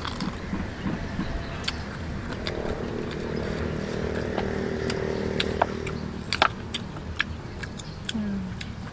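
A person chewing roasted pig's feet, with scattered sharp clicks and smacks, over a small engine running in the background that grows louder for a few seconds in the middle.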